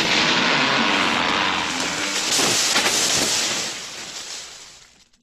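Recorded sound of a tree cracking and falling: a dense rush of crackling, splintering noise that dies away over the last second or so.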